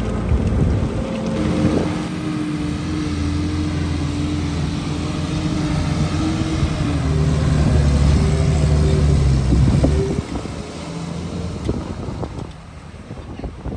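Heavy diesel engine of an earthmoving machine working, its engine speed rising and falling, loudest a little past halfway, then dropping away about three quarters through.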